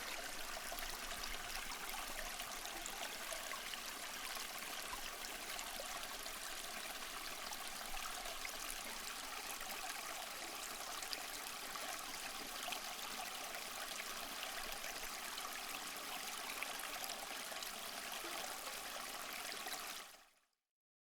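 Running water of a stream, a steady rushing flow that cuts off suddenly near the end.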